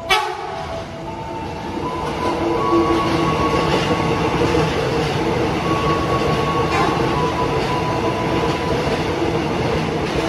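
Electric passenger train running past a station platform: a steady loud rumble and rattle of wheels on rail that builds over the first two seconds and holds, with a sharp knock right at the start.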